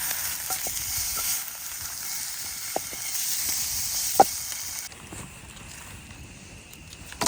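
Food sizzling in a frying pan, a steady hiss with a few sharp pops. It cuts off abruptly about five seconds in, leaving a quieter outdoor background.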